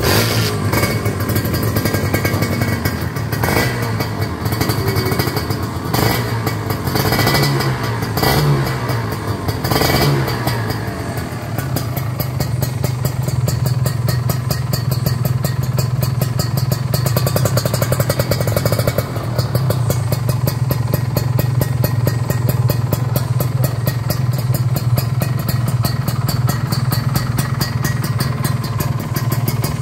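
A Kawasaki Ninja 150 single-cylinder two-stroke with an aftermarket racing exhaust, revved in several quick blips with rising and falling pitch over the first ten seconds or so. It then settles into a steady idle.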